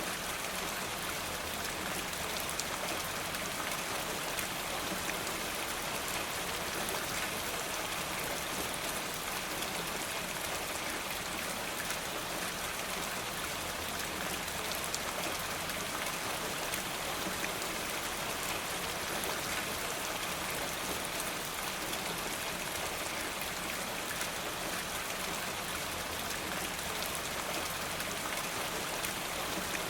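Steady rain falling, with raindrops pattering on surfaces.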